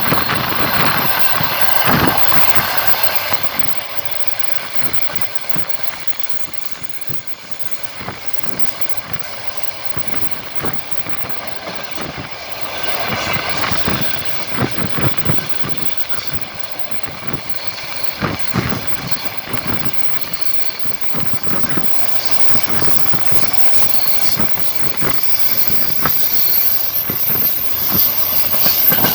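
Wheels of a moving passenger train clattering over the rail joints, heard aboard with a steady rush of running noise. The clacks come irregularly, and the sound is quieter for a stretch in the middle before swelling again.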